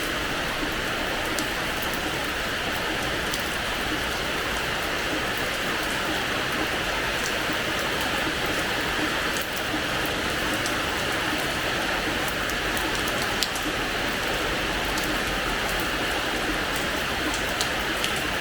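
Steady rain falling on a hard terrace floor: an even hiss with many small, sharp drop splashes scattered through it.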